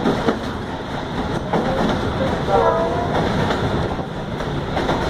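Egyptian National Railways passenger train running, heard from on board: a steady rumble with wheels knocking over rail joints now and then. A brief pitched sound comes about halfway through.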